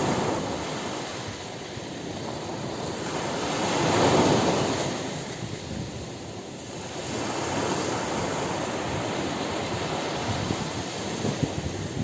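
Ocean surf washing on a beach: a wave breaks and swells to its loudest about four seconds in, then eases off before the next wash builds.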